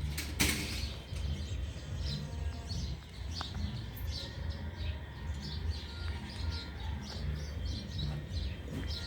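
A bird chirping over and over, short high chirps several times a second, over a steady low rumble, with a brief noisy burst about half a second in.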